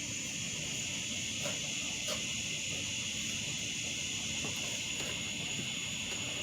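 Steady high-pitched chorus of crickets or other insects, over a low background rumble with a few faint light clicks.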